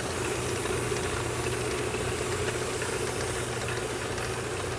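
Metal lathe running steadily with sandpaper held against the spinning headlight bezel: a steady motor hum under a rough, even sanding hiss.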